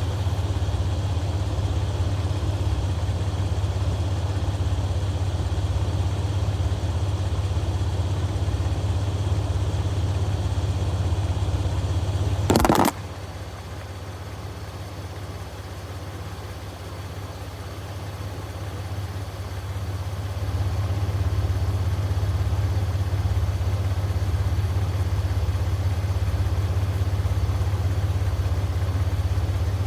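Jeep engine idling steadily. About a third of the way in there is one sharp, loud crack, after which the running sound turns quieter for several seconds before rising again.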